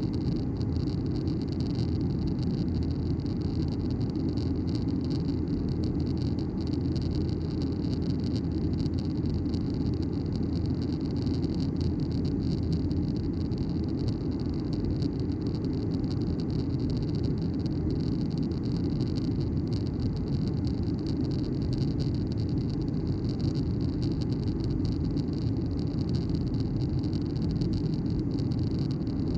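Steady cabin noise inside a Boeing 737-900ER in flight: an even roar of the CFM56-7B engines and rushing air, strongest in the low range with a thin hiss higher up.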